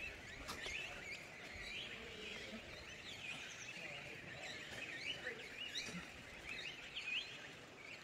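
Small birds chirping: many short, quick high calls, some sliding up and some down, scattered throughout over a faint steady background hiss.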